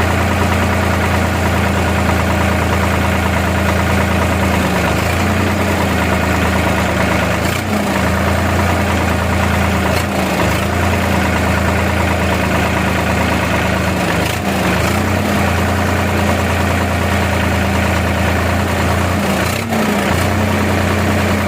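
Tractor diesel engine running steadily at a low, even speed, its pitch dipping briefly a few times.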